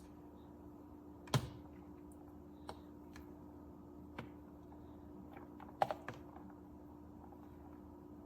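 A few scattered sharp clicks and light knocks, the loudest about a second and a half in and a small cluster about six seconds in, over a steady low hum.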